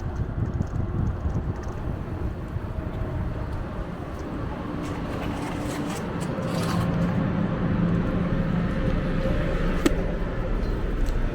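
Road traffic heard from a moving bicycle, over a low rumble that wavers throughout, with a vehicle's engine hum rising about halfway through and a sharp click near the end.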